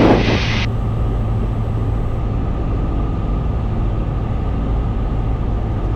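Cessna 172's piston engine and propeller droning steadily in the cockpit on an instrument approach.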